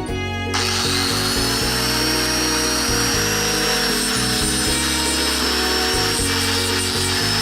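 A power tool, a buffer used to polish the motorcycle muffler, starts about half a second in and runs steadily with a high whine over background music.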